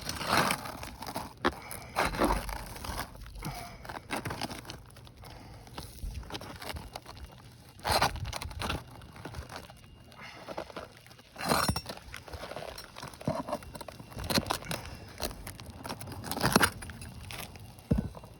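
Steel flat bar prying and scraping under old asphalt roof shingles, the brittle, aged shingle tearing and crumbling in irregular bursts, with several sharp scrapes and cracks.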